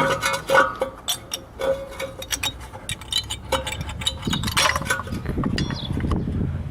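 Sharp metallic clicks about every half second, with a short ringing tone, from a hand tool working the brake caliper bolt. From about four seconds in, a low rough noise takes over.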